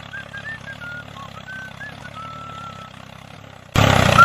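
An engine idling with a steady low chug, with short high chirps above it. Near the end everything suddenly gets much louder.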